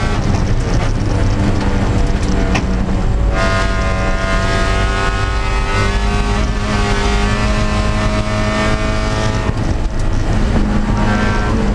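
Spec Miata (Mazda MX-5) race car's four-cylinder engine, heard from inside the stripped, caged cockpit while racing. The engine note gets fuller about three seconds in and its pitch rises slowly, then dips near the end and climbs again.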